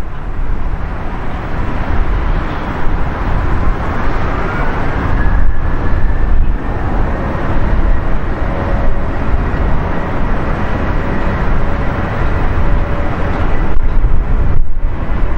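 Jet airliner engines running loud and steady, with a whine that rises in pitch about four seconds in and then holds.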